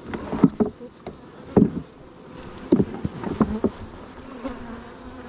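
Honeybees buzzing around an open hive, with several sharp knocks and bumps in the first few seconds, typical of wooden hive boxes and frames being handled.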